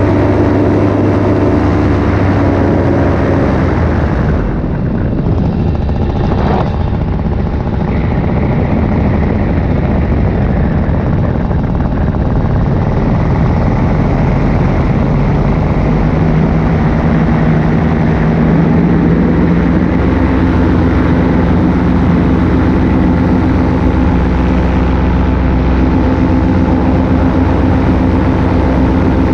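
Paramotor engine and propeller running in flight, over a rushing noise. About four seconds in the engine note fades briefly, then comes back and rises a little in pitch past the middle.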